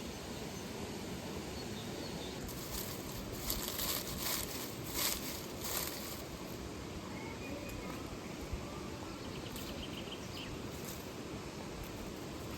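Steady rush of flowing water from a waterfall, with a few short noisy crackles or rustles between about two and six seconds in.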